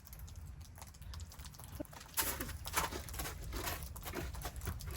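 Snow crunching: a run of irregular crisp crackles, busiest between about two and four seconds in, over a low steady rumble.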